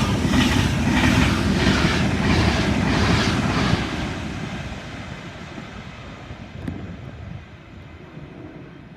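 Class 390 Pendolino electric train passing close by, its wheels clattering over rail joints about twice a second. The sound dies away from about four seconds in as the train moves off.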